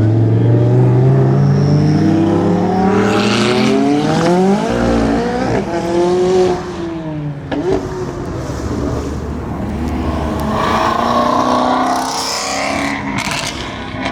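High-performance car engines accelerating hard, the pitch climbing for several seconds and dropping at each gear change, with more revving near the end.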